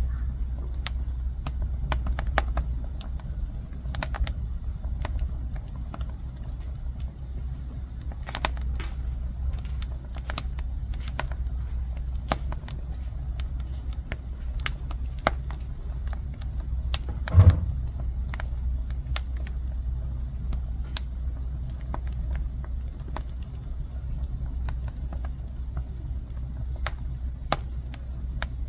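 Jujube-wood fire crackling, with irregular sharp pops scattered throughout and one louder pop about two-thirds of the way through, over a steady low rumble.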